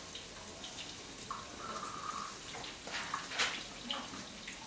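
Potatoes frying in coconut oil in a pan, a steady sizzle with a few louder surges of sizzling. A short steady high tone sounds for about a second, a little over a second in.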